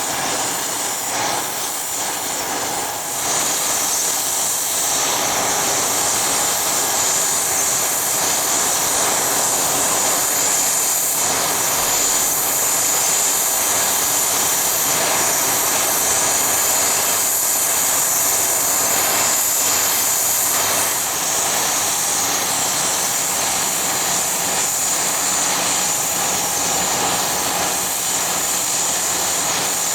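Business jet's turbofan engines running, a loud rushing noise with a high steady whine that swells about three seconds in and then holds.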